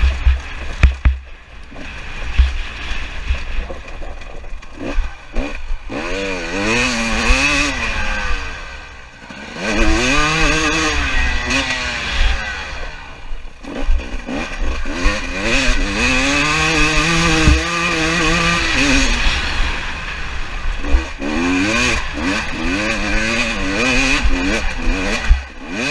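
Two-stroke 300 cc dirt bike engine (KTM 300 TPI) revving hard and backing off again and again as the bike is ridden round a motocross track, its pitch climbing through each gear. The throttle is briefly shut off a few times.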